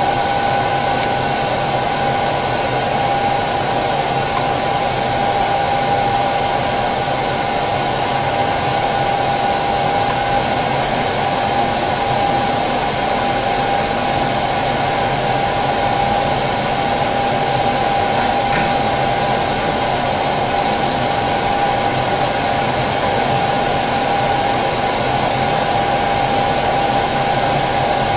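Steady flight-deck noise of an airliner on final approach: a constant rush of air and ventilation with a steady high hum running through it.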